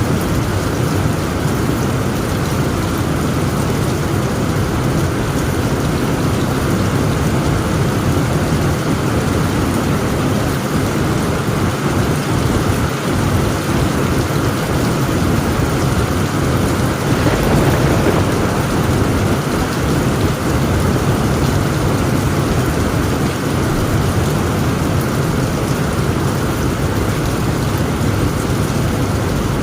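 Heavy rain falling steadily on a tent roof, with a rumble of thunder swelling about two-thirds of the way through.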